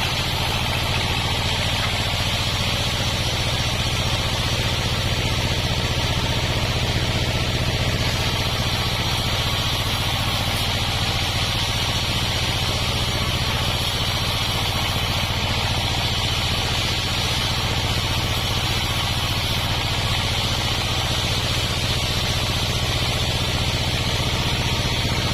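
Homemade sawmill running steadily, its engine and blade making a constant hum with a hiss-like upper band that does not change in level.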